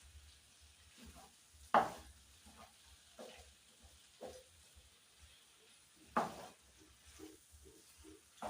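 Spoon stirring chicken gizzards in a cooking pot over a faint sizzle, with a few scrapes and knocks against the pot; the two loudest come about two seconds in and about six seconds in.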